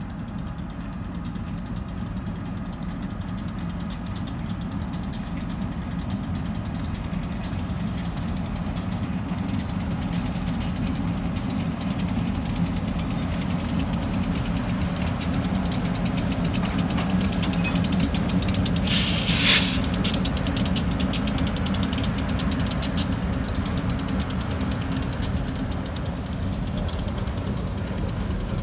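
Freight train passing: diesel locomotive engines with a steady low rumble that builds as they come past, then covered hopper cars rolling by with rapid clicking of wheels on the rails. A brief loud hiss about two-thirds of the way through.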